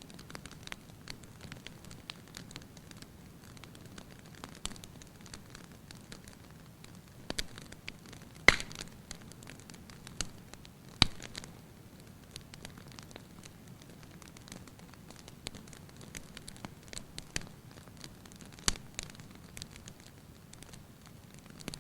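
Wood fire burning in a fireplace, crackling with scattered sharp pops over a low steady hiss. The loudest pops come about eight and a half and eleven seconds in, with another near the end.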